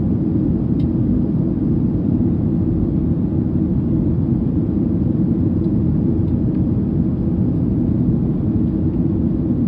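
Steady low rumble of jet engines and airflow heard inside the cabin of a Ryanair Boeing 737 in flight.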